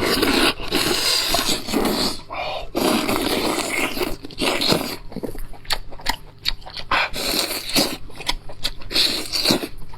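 Lamb chops frying in hot oil: a steady sizzle and spatter, broken by repeated scraping and knocking.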